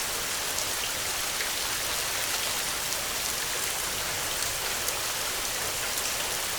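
Heavy rain falling steadily: a dense, even hiss with the patter of countless individual drops.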